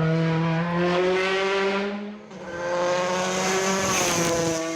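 Rally car engine held at high revs, its pitch nearly steady, dropping away briefly about two seconds in before coming back on.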